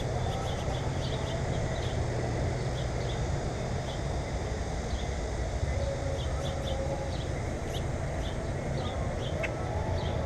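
Small birds chirping in many short, high notes over a steady low rumble.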